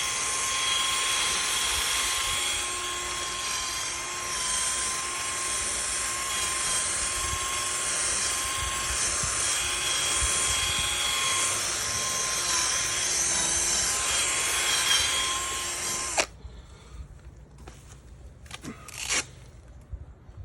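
Electric drill spinning a pad against a plastic headlight lens, running steadily with a whining tone, then switched off abruptly about sixteen seconds in, after which a few light handling clicks follow.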